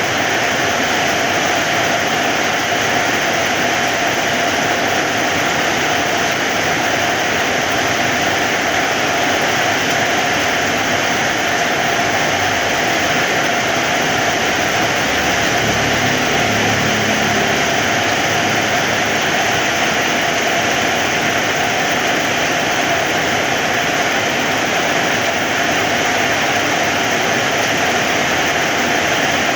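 Heavy rain falling steadily, an even, unbroken hiss. A faint low rumble rises and fades in the middle.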